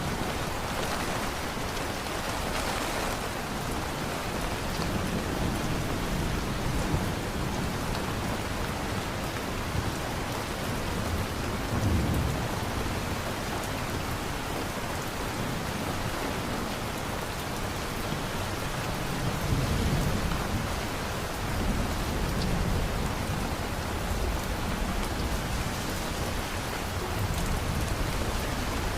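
Steady rain falling in a thunderstorm, with low rolls of thunder swelling about twelve seconds in and again around twenty seconds.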